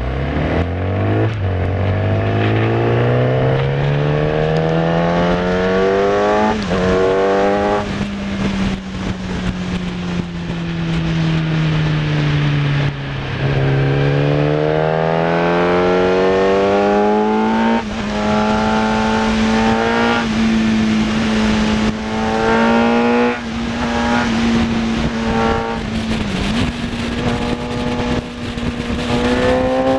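Kawasaki ZX10R inline-four sports bike engine at full throttle. Its pitch climbs steadily through the first several seconds, breaks briefly at an upshift, winds down for a few seconds under braking, then climbs hard again. In the second half it holds high revs, with a few quick dips at gear changes.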